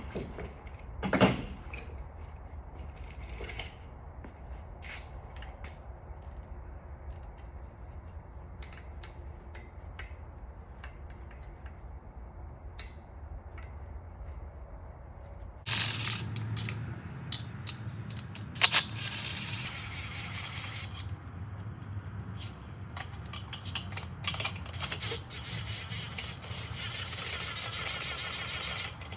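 Hand tools and metal engine parts clinking, knocking and scraping during the teardown of a Honda F22C engine, in scattered sharp clicks with a louder knock about a second in and another a little past halfway.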